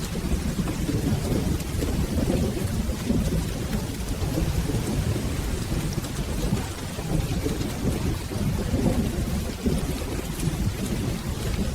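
Steady rain with a continuous low rumble of rolling thunder that swells and eases, with no sharp cracks.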